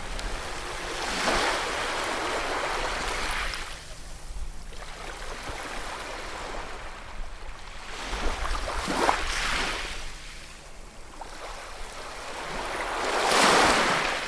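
Ocean waves breaking and washing on a shore, the hiss rising and falling with each wave; three swells, the loudest near the end.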